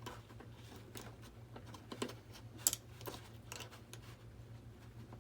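Knife blade cutting and scraping into an RC jet's foam airframe, heard as a string of small irregular clicks and scratches, the sharpest about two and a half seconds in. A steady low hum runs underneath.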